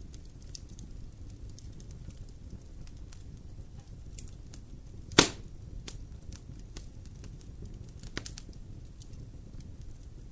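Wood fire burning in a fireplace, crackling with scattered small snaps over a low steady rumble; one loud sharp pop about halfway through and a smaller one a few seconds later.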